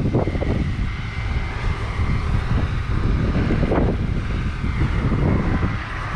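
Heavy farm machinery engine running steadily, a continuous loud drone.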